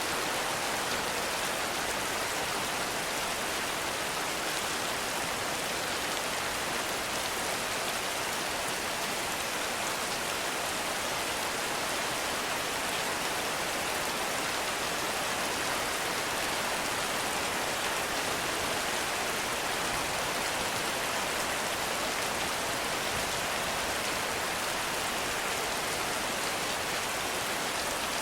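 Heavy rain falling steadily in a forest: a dense, even hiss of drops that does not let up.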